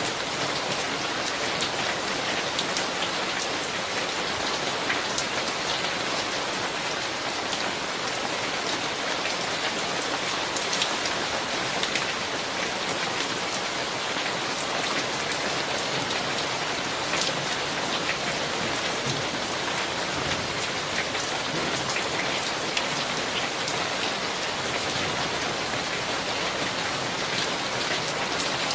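Steady summer thunderstorm rain falling hard, a dense even hiss with many individual drops ticking sharply on nearby surfaces.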